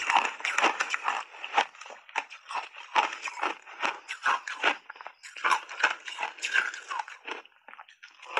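Close-up chewing of crunchy shaved ice coated in matcha powder: a quick run of crisp crunches, several a second, easing off a little near the end.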